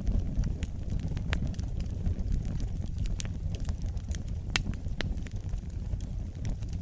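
Wood fire burning in a fireplace: a steady low rumble of flames with scattered sharp crackles and pops, the loudest pop about four and a half seconds in.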